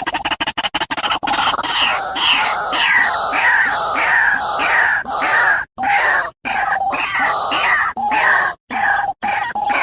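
An animal calling harshly over and over, about three calls a second, with a few sudden breaks in the second half.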